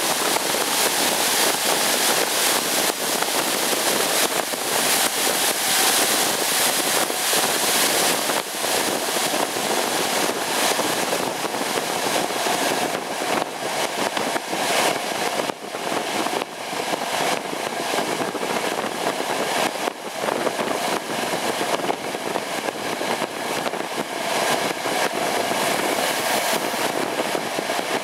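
Passenger express train hauled by two EP09 electric locomotives passing at speed: a steady rumble and clatter of wheels on rails.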